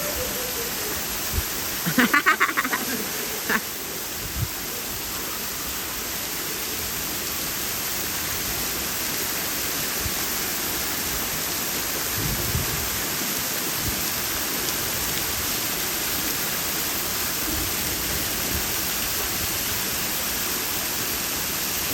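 Steady rushing of a waterfall, with one short pulsed call about two seconds in.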